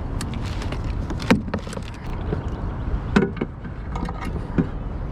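A few sharp knocks and clicks, the loudest about a second in, near the middle and near the end, as fishing gear is handled aboard a kayak, over a steady low rumble.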